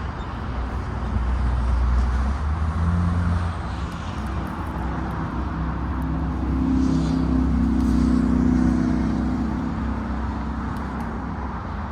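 A motor engine hum with steady low tones, swelling louder about two seconds in and again around eight seconds, as if passing by.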